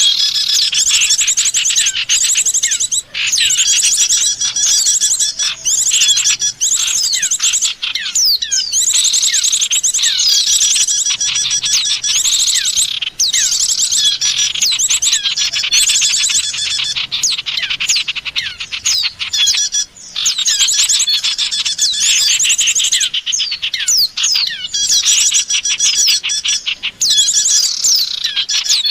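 Dense, continuous chatter of small songbirds: many high chirps and fast trills overlapping each other, the kind of mixed calling used as a bird-luring (pikat) track for white-eyes and prinias.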